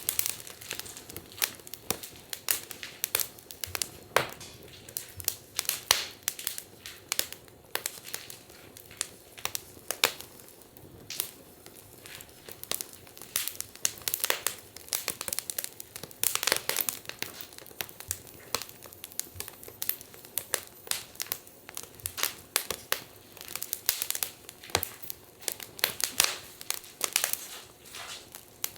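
Wood fire crackling, with irregular sharp pops and snaps, a few louder than the rest.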